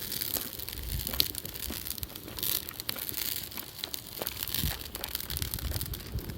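Wood campfire crackling: scattered irregular pops and snaps over a soft hiss.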